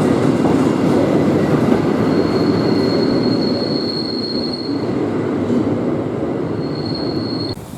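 A train running past close by: a loud steady rumble of wheels on the rails, with a thin high wheel squeal for a few seconds in the middle and again briefly near the end. The sound cuts off abruptly just before the end.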